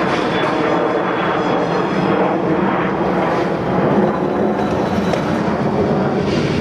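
Freight train of loaded ballast wagons rolling away over pointwork: a loud, steady locomotive engine drone with wheels knocking now and then over the points.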